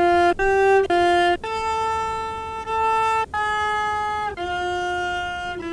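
Harmonic-model resynthesis of a short played cello phrase: about eight bowed notes, each a clean stack of harmonics, with short silent gaps at the changes of note. The gaps are where the analysis, set to a strict f0 error threshold, failed to find the fundamental in the noisy note attacks and so synthesized no harmonics there.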